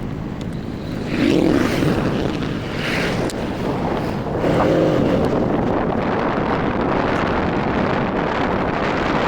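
Wind buffeting the microphone over steady vehicle noise, a little louder from about halfway in.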